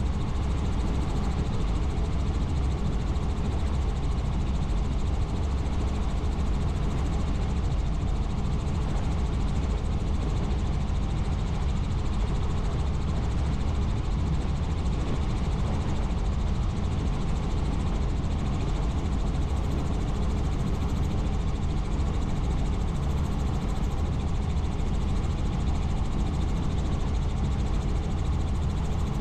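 Helicopter in flight heard from inside: steady rotor and turbine noise, heaviest in the low end, unchanging throughout.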